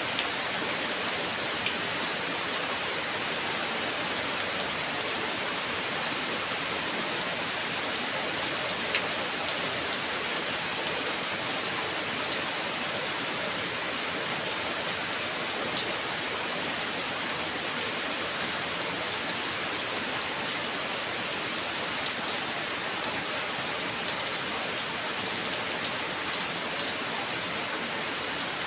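Heavy rain falling steadily, an even patter of drops on a surface with a few sharper individual drop ticks.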